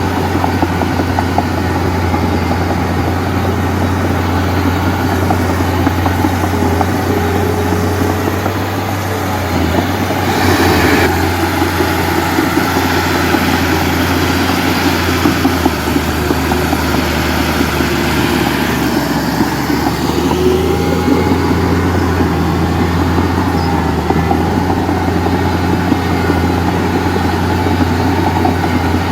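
Heavy diesel engine of earthmoving and dump-truck machinery running steadily, with a short rush of noise about ten seconds in.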